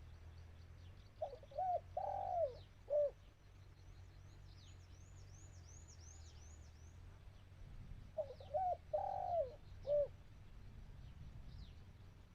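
Spotted dove cooing twice, each time a phrase of about four low notes with the last one short and set apart. Between the phrases a small bird gives a quick run of high, falling chirps.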